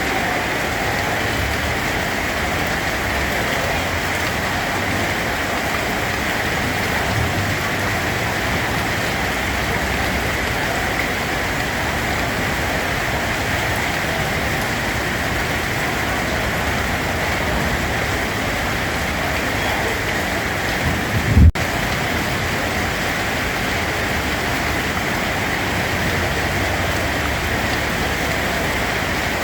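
Steady rain falling on surfaces, an even hiss. About two-thirds of the way through there is a brief low thump, and the sound cuts out for an instant.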